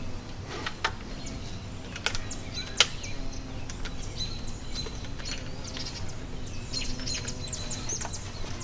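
Small birds chirping repeatedly in the background, with a few sharp clicks and taps; the loudest click comes about three seconds in.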